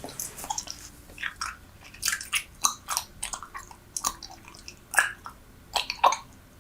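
Super Bubble bubble gum being chewed close to the microphone: irregular wet smacks and clicks, several a second, with the loudest smack about five seconds in.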